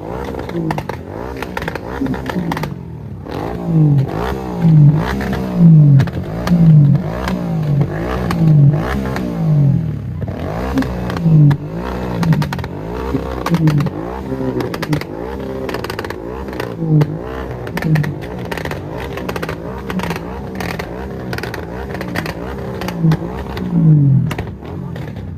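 Kawasaki ZX-10R superbike's inline-four engine revved in repeated throttle blips, about one a second, each rising and falling sharply in pitch.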